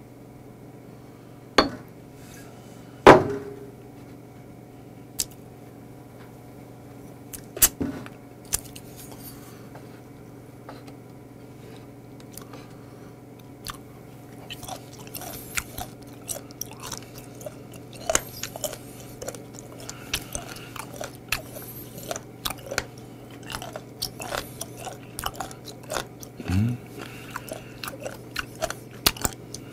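Close-up crunchy chewing of raw seafood, a dense run of wet crackles and clicks that starts about halfway through. Before it come a few sharp knocks, the loudest about three seconds in, and a brief rising hum comes near the end.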